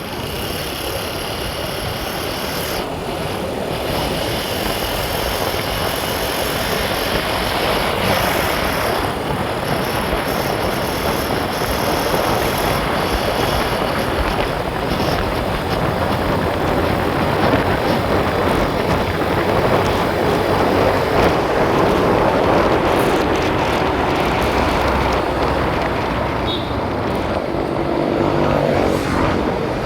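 A vehicle on the move: steady engine and road and wind noise that builds gradually louder.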